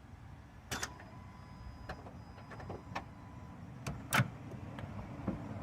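Irregular sharp clicks and knocks, about six over five seconds with the loudest about four seconds in, and a faint steady tone in the first half, from a 2007 Honda Civic that will not start.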